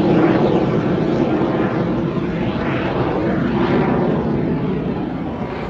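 An airplane flying past at an air show: a loud, steady engine rush that wavers up and down in pitch and eases off slightly near the end.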